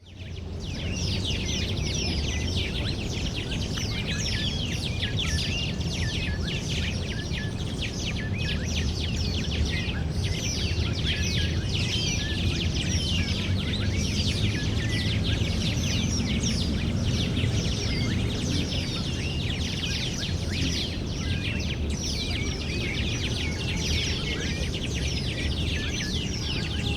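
Park ambience: many small birds chirping and singing continuously, over a steady low background rumble.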